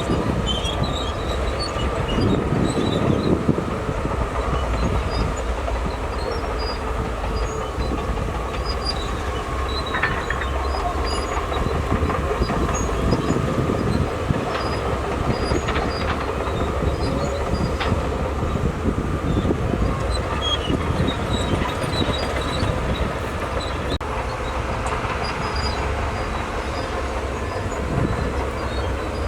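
Shantui DH17C2 crawler bulldozer working: its diesel engine runs steadily under a continuous clatter of steel tracks, with a thin high-pitched squeal riding over the clanking.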